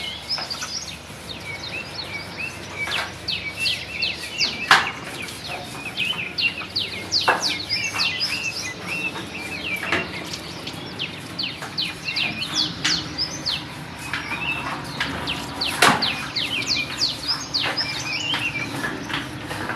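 Many small birds chirping continuously in short, quickly falling notes. Now and then a sharp knock cuts through: about five in all, the loudest a little over three-quarters of the way in.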